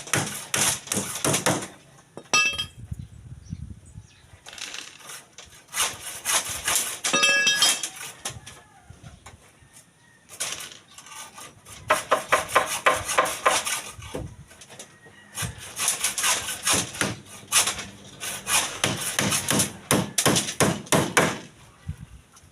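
Work on steel rebar: bursts of rapid metal knocking and tapping, four runs of several seconds each with quieter gaps, and two short ringing metal strikes.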